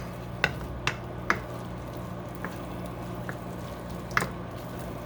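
A few sharp clicks of a utensil against the pan as eggs, chicken and bell pepper cook over medium-high heat: four about half a second apart, then another about four seconds in, over a steady low hum.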